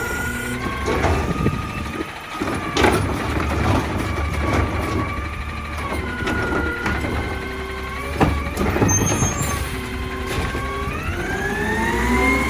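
Heil Durapack Rapid Rail side-loader garbage truck working a trash pickup: the diesel engine and hydraulics run with a tone that dips and rises, with several sharp knocks and thumps of carts and trash. Near the end the engine revs up, its pitch climbing steeply.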